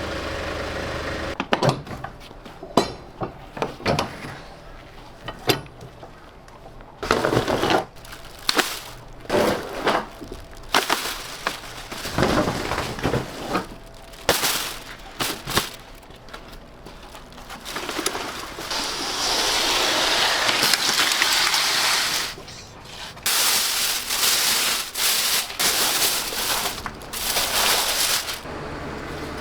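Kitchen work: irregular knocks and clatters of utensils and containers being handled, then several seconds of steady rushing noise from about eighteen seconds in, broken briefly and resuming.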